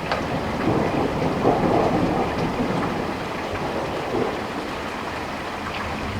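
Heavy rain falling, a steady dense hiss that eases slightly over the few seconds.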